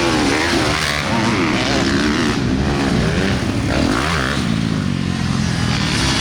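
Several motocross bikes running on the track, their engines revving up and falling off over one another.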